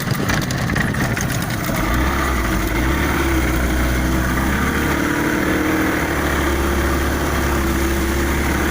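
Motorboat engine running steadily, its low hum growing stronger about two seconds in.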